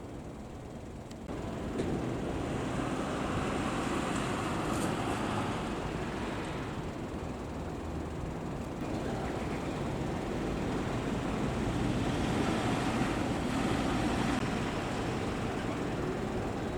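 Heavy vehicles driving past, engine and tyre noise swelling twice as they go by.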